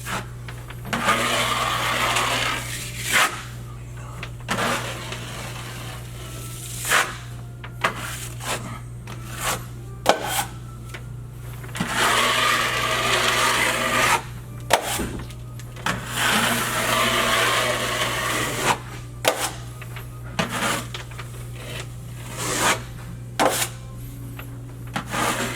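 Drywall knife spreading and scraping quick-setting joint compound across a wall in long rasping strokes, with sharp clicks and knocks of the knife against the mud pan in between. A steady low hum runs underneath.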